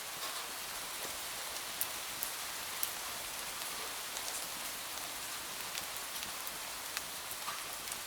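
Steady rain falling on window glass, an even hiss with many scattered sharp ticks.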